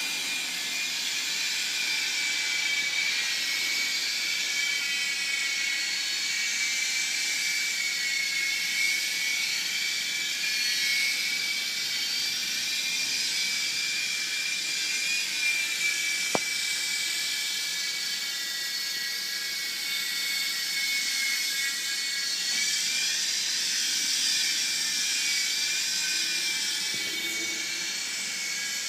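Small electric RC helicopter's motor and rotors whining steadily at a high pitch, the pitch drifting up and down a little as the throttle changes. One sharp click about halfway through.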